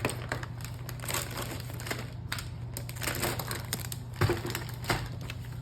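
Paper and card pieces being handled and shuffled on a craft desk, rustling and crinkling in irregular crackles, with a couple of light knocks of small objects set down about four and five seconds in.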